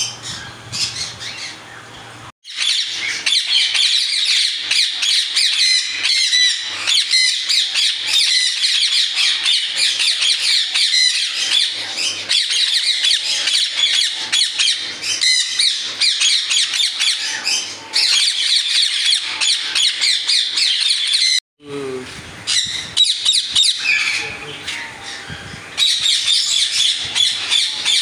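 Parrots squawking and chirping in a dense, continuous chatter of overlapping high calls, broken off abruptly twice.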